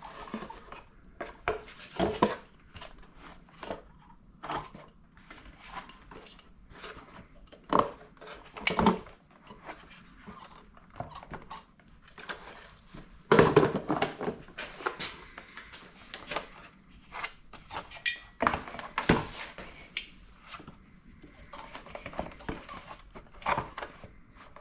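Irregular clicks, knocks and light clatter of parts and tools being handled while a pancake air compressor is taken apart, with a louder knock about 13 seconds in; the compressor's motor is not running.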